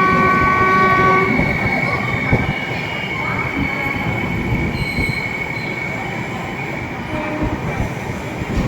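Express train running on the rails with a steady rumble and a thin, high wheel squeal. A horn sounds once, held for about a second and a half at the start.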